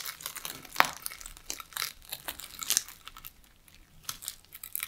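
Knife cutting through the crisp, oven-baked puff pastry of a steak bake, which crackles and flakes in many small sharp crunches, the loudest about a second in; then the pastry is pulled apart with a fork.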